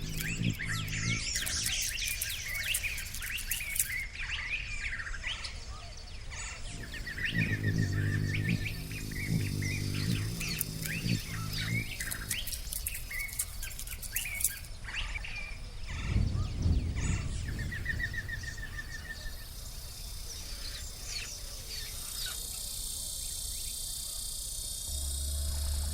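Many wild birds chirping and singing over one another, with short chirps, sweeps and repeated trills. A low pitched sound comes and goes twice. A steady high-pitched buzz sets in about 22 seconds in.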